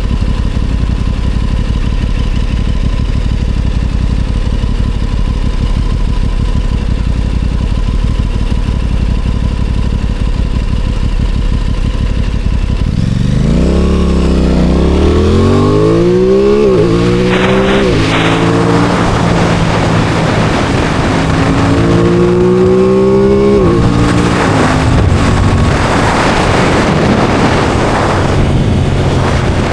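Aprilia Tuono 660 Factory's parallel-twin engine idling steadily, then pulling away about 13 seconds in. It accelerates with the revs rising and dropping back through several gear changes, then settles into a steady cruise with wind noise.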